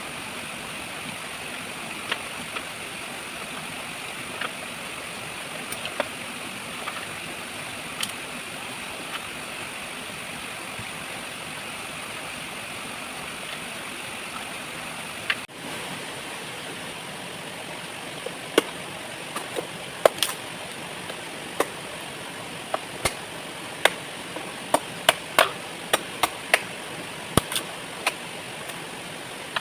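Steady rushing of a waterfall, with sharp clicks and knocks scattered over it, coming thick and fast in the second half.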